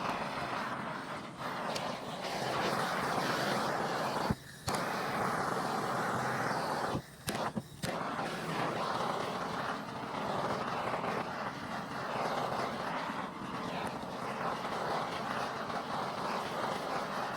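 Propane torch flame roaring steadily as it burns the loose fibres off weathered oak driftwood, with a few brief breaks.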